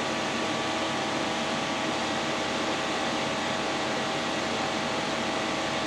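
2015 Chevy Cruze's 1.4-litre turbocharged four-cylinder idling smoothly with its electric radiator fan running at full speed, a steady noise throughout. The ECM has maxed out the fan because the mass airflow sensor is unplugged and has set fault codes.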